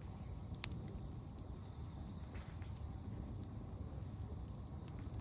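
Open wood campfire crackling, with a few sharp pops (the loudest about half a second in) over a low steady rumble. In the background an insect chirps in quick, even, high-pitched pulses that pause for a couple of seconds early on.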